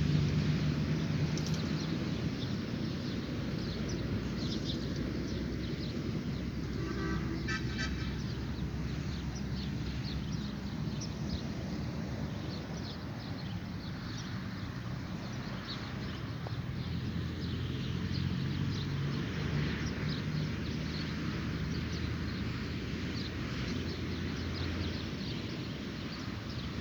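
Dawn outdoor ambience: many small birds chirping over a steady low hum. About seven seconds in comes a quick run of short, evenly spaced calls.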